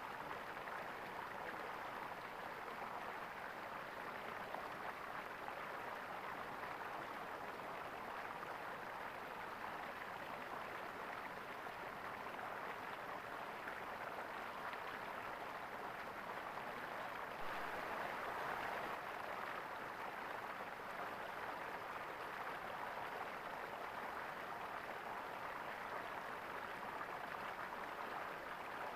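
Water in a small stream gurgling steadily, swelling slightly a little past the middle.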